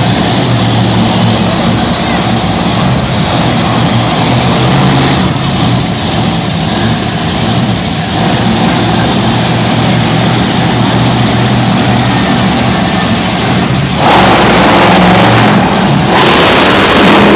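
Big-engined wheelie truck running loud and fairly steady under throttle. About fourteen seconds in, a louder rush of broad noise takes over.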